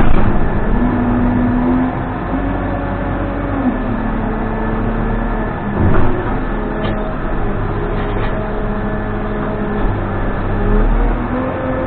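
Case 580N backhoe loader's diesel engine running under hydraulic load, with a whining tone that steps up and down in pitch as the controls are worked. There is a short knock about six seconds in.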